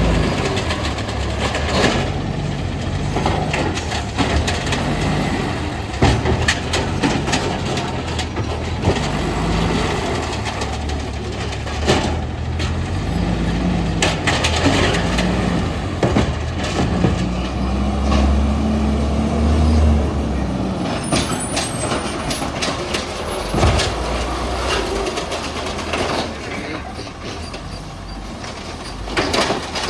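Garbage truck collecting recycling: its engine runs throughout and revs up for several seconds about halfway through, amid repeated sharp clanks and bangs.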